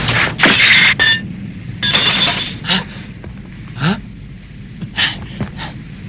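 Cartoon sword-fight sound effects: a string of sharp metallic clashes and clinks of blades striking, several close together in the first couple of seconds, then fewer and spaced out.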